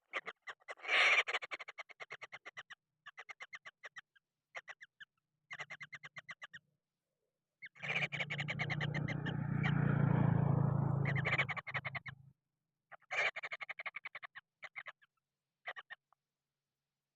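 Hungry kingfisher chicks begging, with rapid trains of harsh ticking calls, about ten a second, coming in repeated bursts. In the middle there are a few seconds of louder, continuous harsh rasping.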